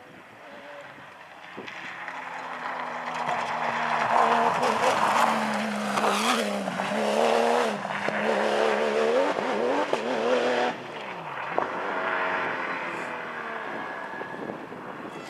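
Porsche rally car at full throttle, its engine note building as it approaches and wavering up and down with gear changes as it passes close. The sound drops suddenly about eleven seconds in, then an engine note falls in pitch and fades as a car pulls away.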